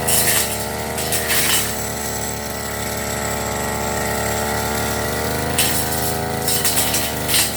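Firman FGB389FI brush cutter's small petrol engine running at steady high speed, with short hissing surges several times as the blade cuts through grass.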